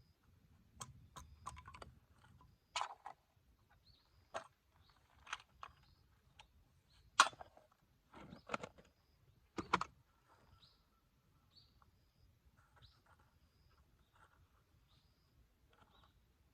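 Scattered sharp clicks and knocks, a few at a time and loudest about seven seconds in, over a quiet outdoor background. Short high bird chirps repeat throughout.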